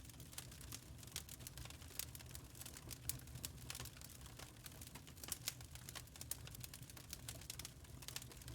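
Wood fire crackling: a dense, irregular run of small sharp pops and snaps over a low steady rumble of the burning logs.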